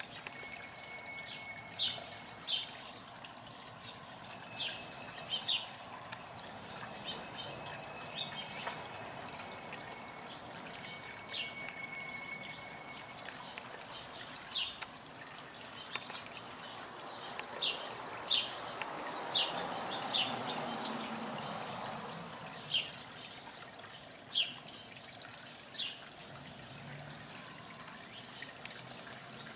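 Birds chirping: scattered short, sharp, high chirps, around fifteen in all, with a few brief thin whistled notes, over a steady outdoor background hiss. A low rumble swells and fades about two-thirds of the way through.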